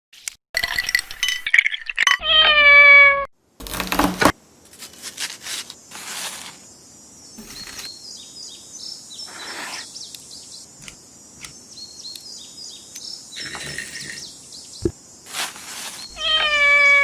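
A cat meowing twice, a slightly falling call about two seconds in and another near the end, with quieter scattered clicks and a faint high hiss in between.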